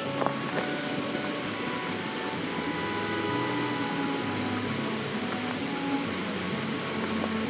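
Steady rushing of a river flowing past.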